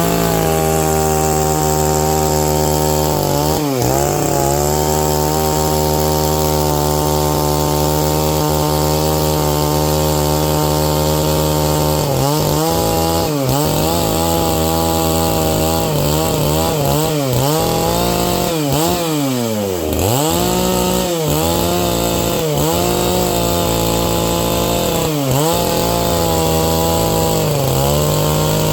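Stihl MS660 two-stroke chainsaw running at high revs while ripping a pine log lengthwise along the grain. Its engine speed holds steady at first, then from about halfway dips again and again under the load of the cut, once dropping deeply about two-thirds of the way in.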